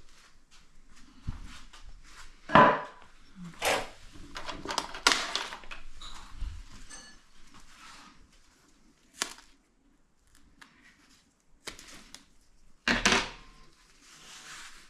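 Irregular knocks, clatters and rustling from parts and materials being handled during the repair work, loudest about two and a half seconds in and again near the end.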